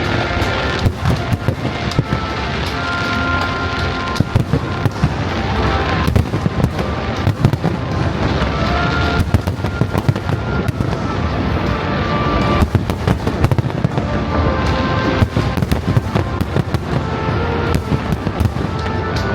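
Fireworks display going off continuously, a rapid, irregular stream of bangs and crackles, with music playing over it.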